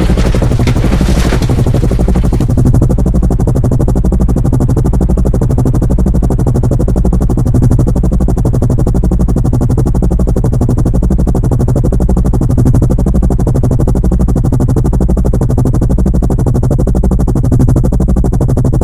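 Helicopter running close by: a loud, steady mechanical drone with a fast, even beat, and a brief higher rattle in the first couple of seconds.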